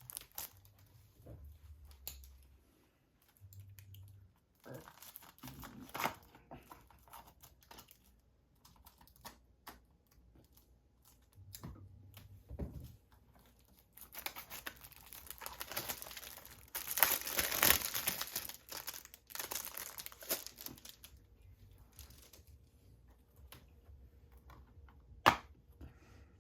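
Plastic shrink wrap being torn and peeled off a Blu-ray case: crinkling and rustling in uneven bursts, loudest in the middle, with a single sharp click near the end.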